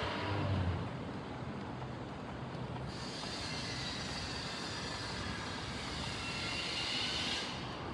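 Train running on the rails, with a faint high wheel squeal near the end.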